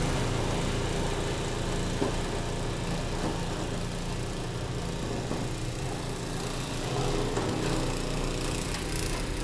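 Ariens 20-inch two-stage snowblower's 5 HP Tecumseh single-cylinder engine running steadily, with one brief knock about two seconds in.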